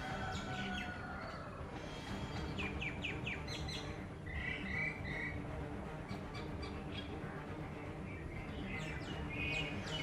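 Birds calling: a quick run of about five short falling chirps around three seconds in, a few clear chirps around five seconds, and more calls near the end.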